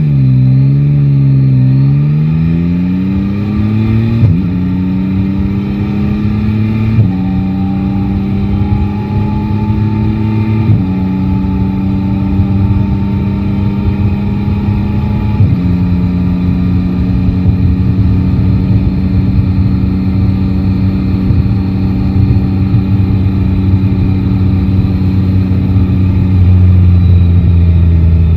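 Yamaha Tracer 9 GT's three-cylinder engine accelerating up through the gears. The pitch climbs in each gear and drops at four upshifts, about 4, 7, 11 and 15 seconds in, then holds steady at a cruise.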